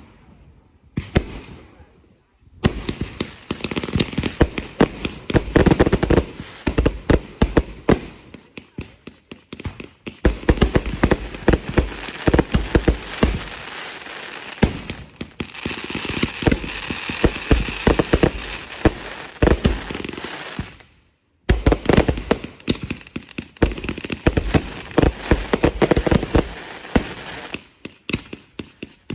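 Fireworks going off in a dense barrage of rapid bangs and crackles. The barrage stops abruptly about three-quarters of the way through and starts again a moment later.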